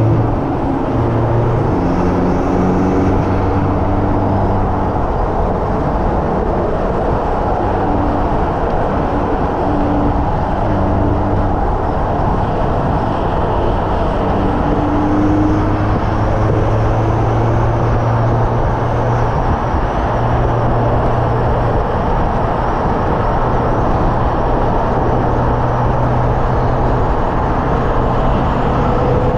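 Hyundai Elantra N's 2.0-litre turbocharged four-cylinder engine driven hard on a race track, its note rising and falling with throttle and gear changes over steady road and wind noise.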